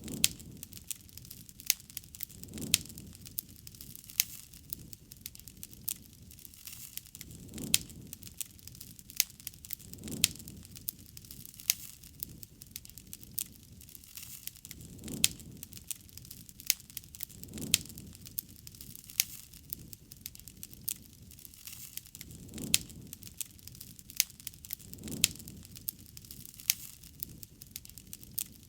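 Wood campfire crackling, with frequent sharp pops and snaps and a low, soft rush of flame that swells and fades every few seconds.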